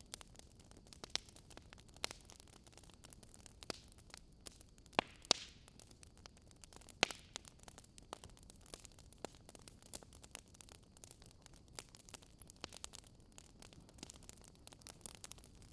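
Wood fire crackling: irregular sharp pops and snaps over a steady low hiss, with a couple of louder pops about five and seven seconds in.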